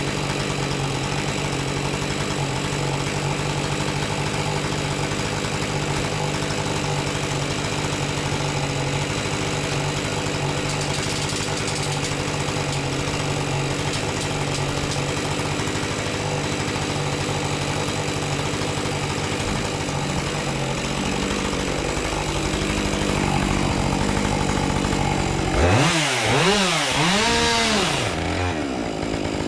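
Two-stroke chainsaw idling steadily, then revved up and down a few times near the end.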